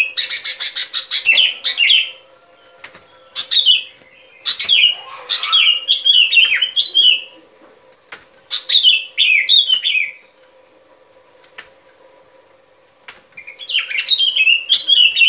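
Bulbul (chim bông lau) singing: short, bubbly phrases of quick, up-and-down whistled notes, repeated four times with pauses between them, over a faint steady hum.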